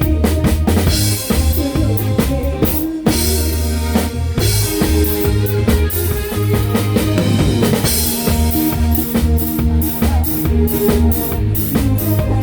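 Live band playing a song on a full drum kit, with bass drum, snare and rimshots under sustained bass and other instruments.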